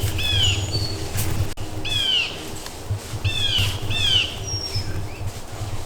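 Wild birds calling in woodland: one bird repeats a short arched note four times, with thin high whistles from other birds in between, over a steady low rumble.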